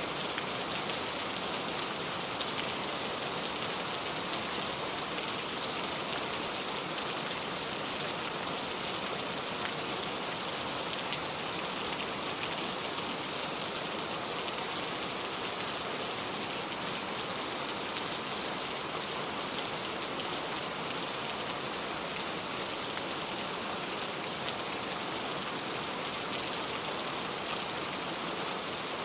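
Heavy rain pouring steadily, a dense even hiss of drops with faint individual drop ticks.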